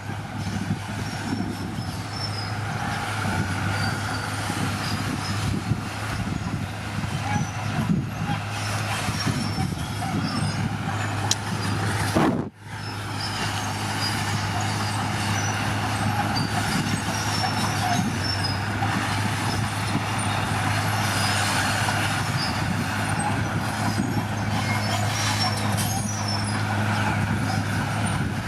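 Diesel engine of heavy earthmoving machinery running steadily under work, with a constant low hum; the sound cuts out for an instant about twelve seconds in.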